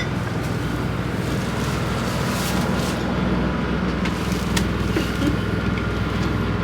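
Steady low rumble and hum inside a passenger train car, with a few faint clicks.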